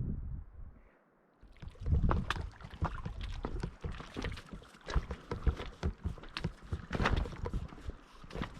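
Footsteps of a hiker walking out on the trail: irregular steps and scuffs close to the microphone, starting after a brief silence about a second in.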